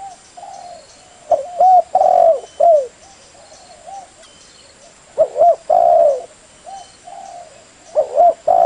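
Spotted dove cooing: loud phrases of short downward-curving coos, about three seconds apart, with fainter coos between them.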